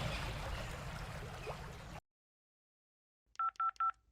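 A faint background hiss fades and cuts to silence about halfway through. Near the end come three quick two-tone touch-tone phone keypad beeps, as when a number is being dialled.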